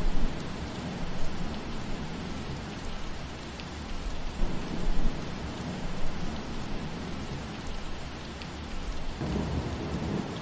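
Steady rain falling through trees, with a low rumble that swells and fades about every four to five seconds.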